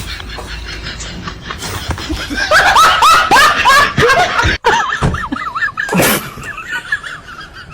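Laughter: a run of quick, high-pitched laughs, loudest in the middle, broken off by a sudden cut about four and a half seconds in, then quieter laughing.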